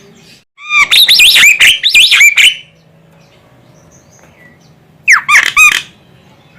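Javan myna (jalak kebo) calling: a loud run of harsh squawks and whistled notes swooping up and down in pitch for about two seconds, then a pause and a shorter burst of the same calls near the end.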